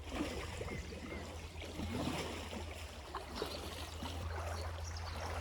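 Fast river current running, with scattered small splashes of water.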